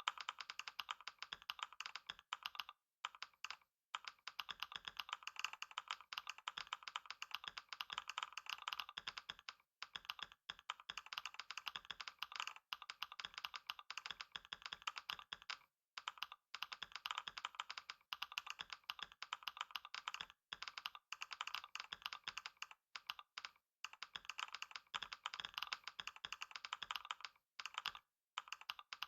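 Fast, continuous typing on a computer keyboard, a dense stream of key clicks broken by several brief pauses.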